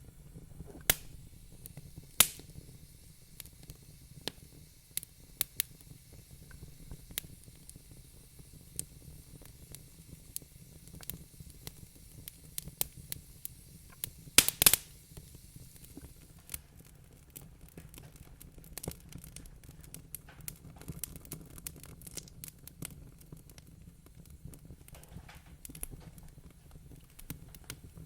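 Wood fire crackling in a fireplace: irregular sharp pops and snaps, with a cluster of louder pops about halfway through, over a steady low hum.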